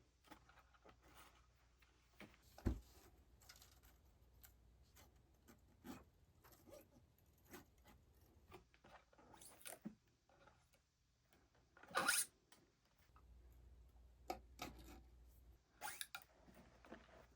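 Quiet handling noises during guitar string removal: scattered small clicks and rustles, a sharp click about three seconds in, and a louder half-second rasp about twelve seconds in.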